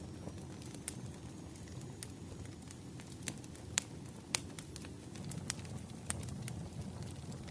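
Wood fire crackling: a steady low rumble with scattered sharp pops of burning firewood.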